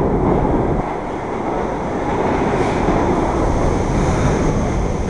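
New York City subway train in an underground station: a steady rumble of wheels on rail that drops about a second in and then builds again.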